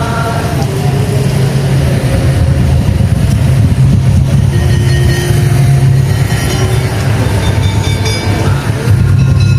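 Dense, continuous drumming from a tongtong/daul percussion ensemble, heavy in the low drums, with short pitched melody notes sounding above it.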